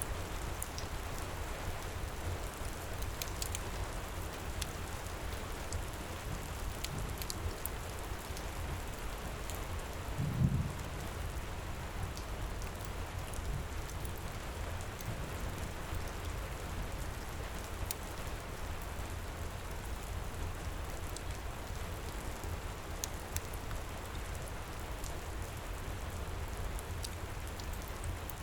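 Steady heavy rain, with faint scattered crackles of a wood fire in a fireplace. A single short low thump comes about ten seconds in.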